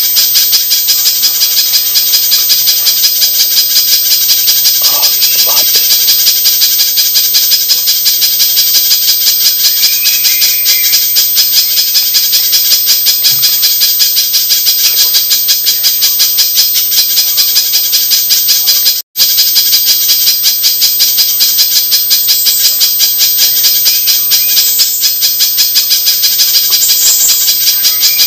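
Spiderhunter calls from a bird-trapping lure recording: a loud, fast, unbroken run of sharp repeated notes, with a momentary cut about two-thirds of the way through.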